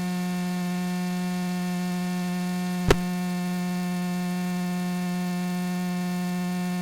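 Steady electrical hum with even overtones, interrupted by a single short click about three seconds in.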